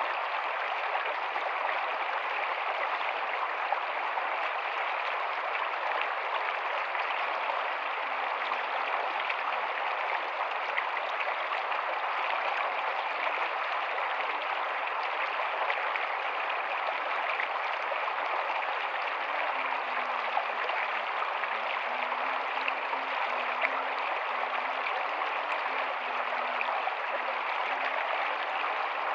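Rocky stream running, a steady, unbroken rush of water.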